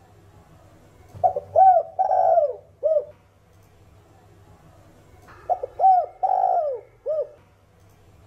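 Spotted dove (Streptopelia chinensis) cooing: two song phrases about four seconds apart, each a couple of short quick coos, a longer rougher note and a short final coo.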